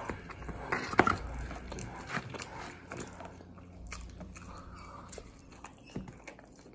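A person chewing a slice of barbecue chicken pizza close to the microphone, with small irregular crunches and mouth clicks; a louder click comes about a second in, and another bite near the end.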